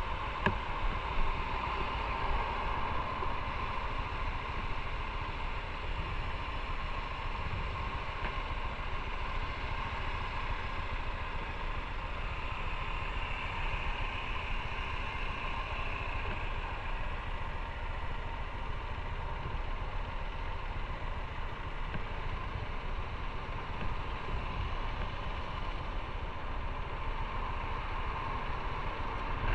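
Motorcycle engine idling steadily at low revs.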